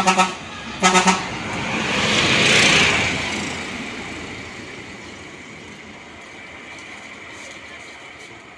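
A large road vehicle's horn gives two short, pulsing honks a second apart, then the vehicle passes by, its noise swelling to a peak a couple of seconds later and fading away.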